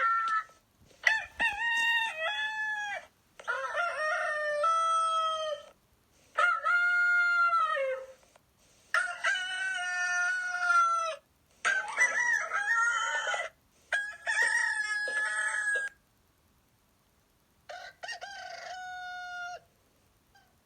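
A rooster crowing cock-a-doodle-doo about seven times in a row. Each crow lasts about two seconds and starts and stops abruptly, with short silent gaps between them.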